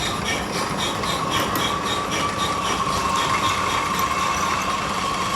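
Workshop machinery running steadily, with a high hum and a rhythmic clatter about three times a second.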